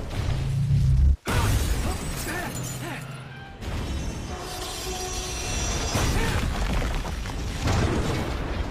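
Action-film sound effects over the score: a heavy low rumble cuts off abruptly about a second in. A sudden crash with shattering and clattering debris follows and rings on under the music.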